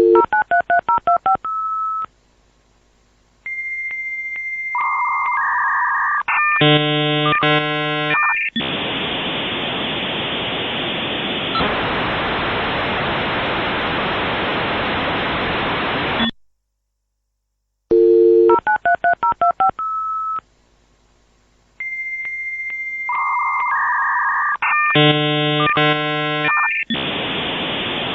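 Dial-up modem connecting: a quick run of touch-tone dialing, then a steady answer tone, warbling handshake tones and a long hiss of static. After a short silence the whole sequence starts again about 18 seconds in.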